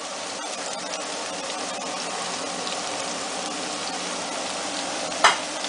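Diced aubergine sizzling steadily in hot oil in a frying pan, with one sharp knock about five seconds in.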